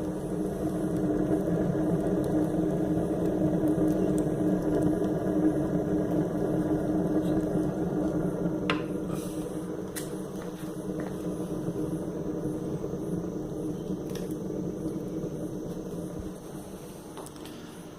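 Ceramic rocket-stove fireplace burning with a steady low hum as the fire draws hard, fading somewhat in the last few seconds, with a couple of faint crackling ticks partway through.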